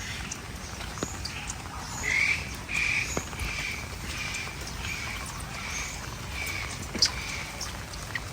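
A bird calling a run of about ten short, evenly spaced notes, a little under two a second, starting about two seconds in, while other birds chirp faintly in the background. A single sharp tap is heard near the end.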